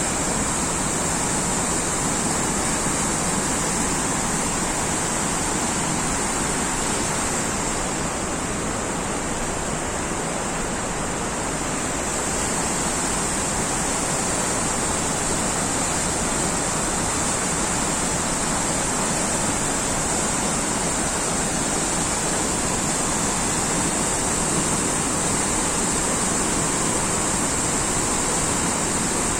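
Steady rushing of flowing water, even and unbroken, with a constant high hiss over it.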